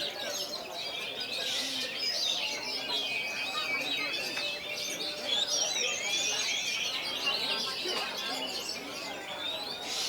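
Several caged oriental magpie-robins (kacer) singing at once in a song contest: a dense chorus of overlapping, fast-changing whistled and chattering phrases, over a faint murmur of voices.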